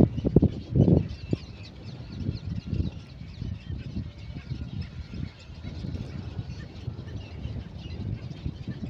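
Great cormorants at the nest: low, guttural croaking calls repeated throughout, loudest in the first second, with fainter higher-pitched scratchy calls from the chicks.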